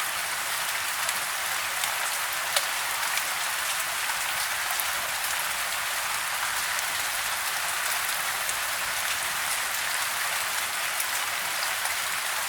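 Steady soft rain: an even hiss with scattered ticks of single drops.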